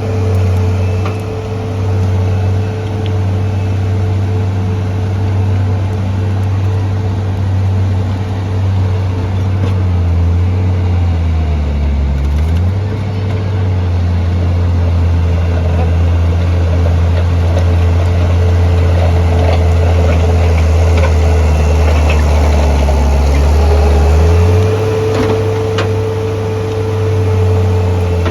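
An engine running steadily at low speed, its pitch dipping and recovering briefly about twelve seconds in and shifting again near the end.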